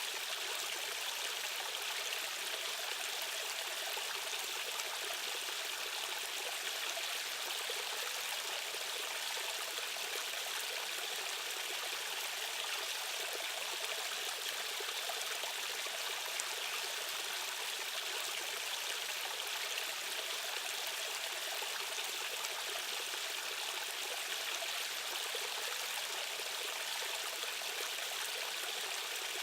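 Fast-flowing stream current running steadily: a continuous, even hiss of rushing water, bright and with little low rumble.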